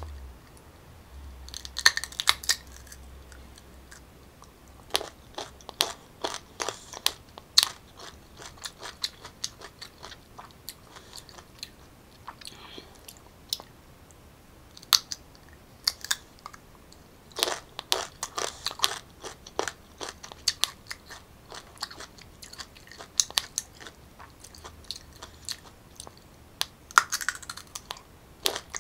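Close-up biting and chewing of crisp unripe green mango: sharp, crisp crunches come in clusters of quick cracks, with quieter gaps between mouthfuls.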